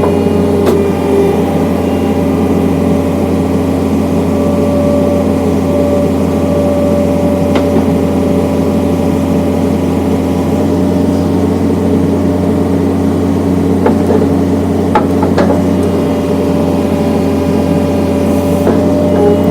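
John Deere skid steer engine running steadily, powering the hydraulic log splitter. A few short sharp knocks are heard over it, most of them in the second half.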